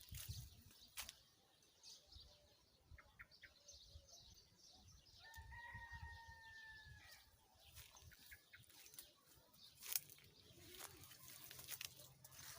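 Quiet outdoor background with one faint, drawn-out rooster crow lasting about two seconds, a few seconds in, its pitch falling slightly at the end, and a few light clicks.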